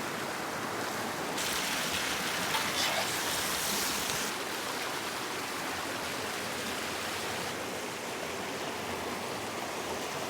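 Steady rushing noise like flowing water. It grows louder and hissier from about one and a half seconds in until about four seconds, with a few faint ticks.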